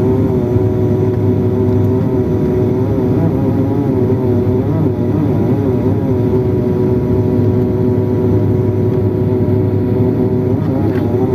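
A motor engine running steadily at an even speed, its hum wavering slightly in pitch, over a low rumble.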